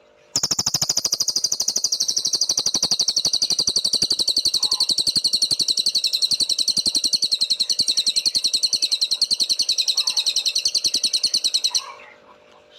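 Cililin songbird singing one long, very fast trill of high repeated notes for about eleven seconds, starting and stopping abruptly.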